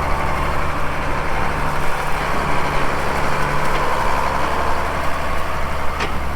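A vehicle engine running steadily at an even speed, a constant low hum, with a short click about six seconds in.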